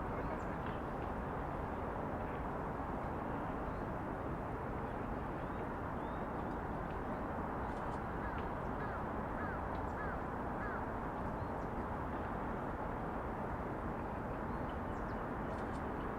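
Steady outdoor city ambience: an even background hum, with a short run of bird chirps about halfway through.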